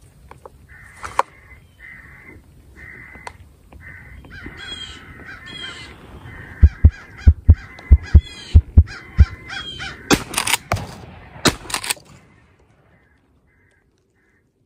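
Crows cawing over and over, harsh repeated caws. Partway through, a run of about nine heavy low thumps comes on the microphone, the loudest thing here. Near the end there are several sharp knocks.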